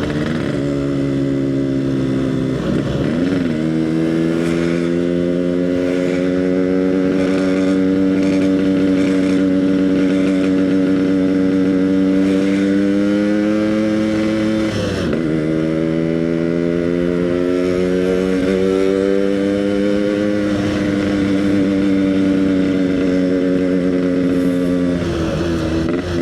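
Yamaha RX King two-stroke motorcycle with an aftermarket EnzyProject exhaust, cruising under steady throttle; its engine note drifts slowly up and down and dips briefly about three seconds in and again about fifteen seconds in, as at a gear change or a lift of the throttle.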